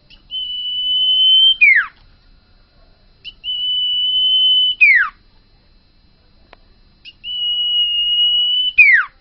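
Common iora (cipoh) singing: three long, steady, high whistles, each ending in a quick falling slur, about three and a half seconds apart.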